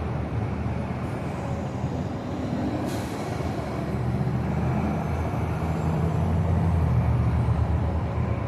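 Mini bike engine running while riding, mixed with road and wind noise; it grows somewhat louder about halfway through.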